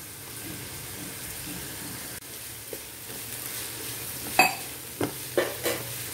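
Sliced onions and crushed garlic frying in oil in a nonstick pan, a steady sizzle throughout. In the second half a spatula stirs them, scraping and knocking against the pan a few times, the sharpest knock a little past the middle.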